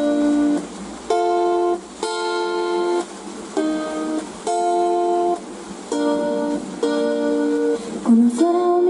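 Guitar playing an intro, chords struck about once a second and each held briefly before a short gap.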